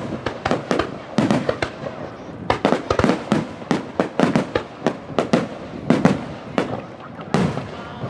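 Fireworks display: aerial shells bursting in quick, irregular succession, about two loud reports a second with echoing tails.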